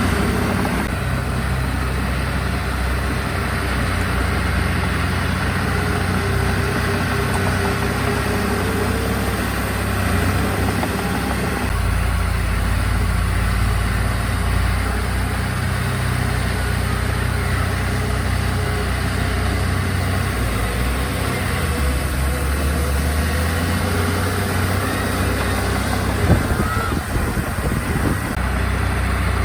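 Diesel engine of heavy earthmoving machinery running steadily, its note and load shifting a few times, with a brief knock near the end.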